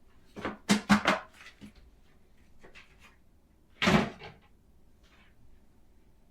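Household knocks and clatters of things being handled during bathroom cleaning: a quick run of three or four knocks about half a second to a second in, a few faint taps, then one louder knock just before four seconds.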